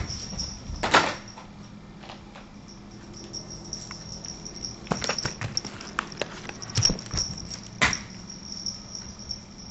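Scattered knocks and taps, the loudest about a second in and near eight seconds, with a quick run of them between five and seven seconds, over a steady low hum and a faint high whine.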